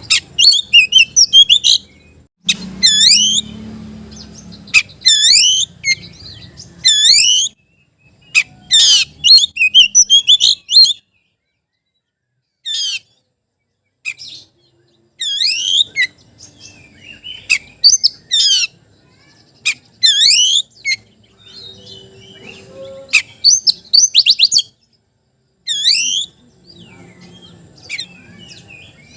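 Oriental magpie-robin (kacer) singing its challenge song, the call used to provoke a rival male. It gives loud, rapid whistled phrases of quick up-and-down sweeps in bursts, with short pauses between them.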